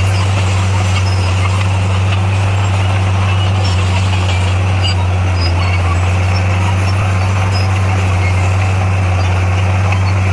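D58A bulldozer's diesel engine running steadily under work, a constant deep hum with no change in pitch or level.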